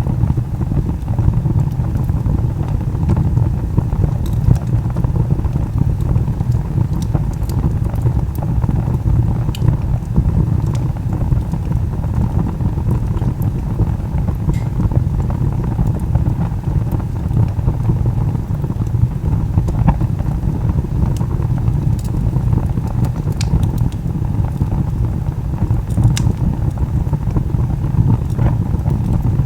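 Wood fire burning: a steady low roar with scattered sharp crackles and pops from the burning log.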